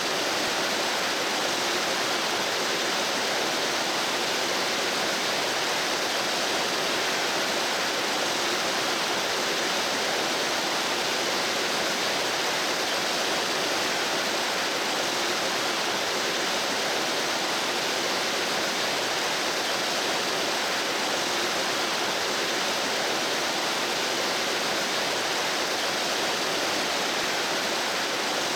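Mountain stream rushing over rocks: a steady, even babble of running water.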